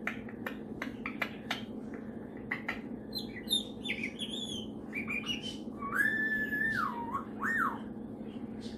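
Superb parrot making short clicks and chirps, then a whistled note that rises, holds for about a second and drops, followed by a shorter whistle.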